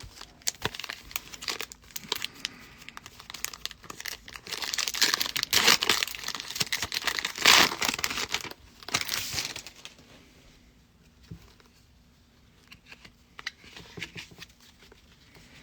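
A trading-card pack wrapper being torn open and crinkled: a few light handling clicks, then several seconds of loud crinkling and tearing in the middle, then fainter handling sounds near the end.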